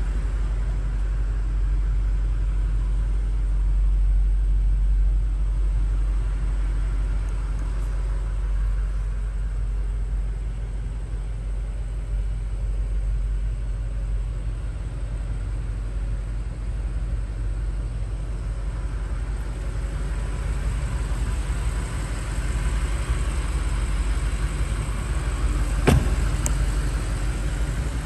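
BMW X5 M Competition's twin-turbocharged 4.4-litre V8 idling with a steady low rumble, with one sharp knock near the end.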